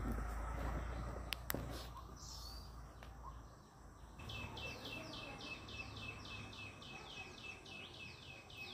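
A bird calling in a fast, even series of short descending notes, about three a second, starting about four seconds in over outdoor ambience. Before that there is a low rumble and a couple of sharp clicks.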